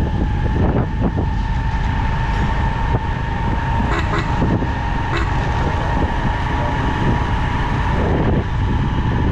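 Motorcycle riding through city traffic: a steady engine drone with heavy wind noise on the microphone and a steady whine throughout, with a few brief clicks about halfway through.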